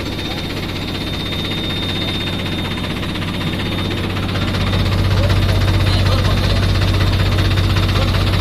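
JCB backhoe loader's diesel engine running steadily, getting louder about four and a half seconds in as it picks up revs. A faint high steady whine sounds over it in the first half.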